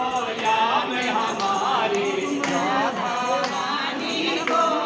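Devotional temple singing: a voice carrying a gliding melody, with a few percussion strikes.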